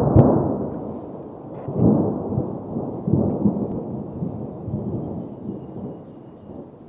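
Gusty wind buffeting the microphone: low rumbling that swells at the start, again about two seconds in and about three seconds in, then eases off. A single sharp click comes right at the start.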